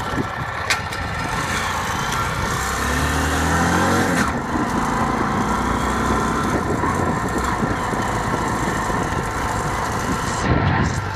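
Motorcycle engine running under a steady rush of wind and road noise; about three seconds in it revs up, rising in pitch, then drops back at a gear change. A sharp click comes just under a second in.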